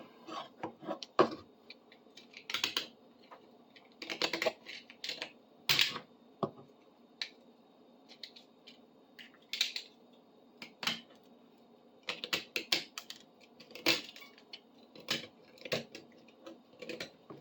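Knife blade scraping and chipping hardened gunk off a metal bar clamp: short irregular scrapes and clicks, roughly one stroke every second or so.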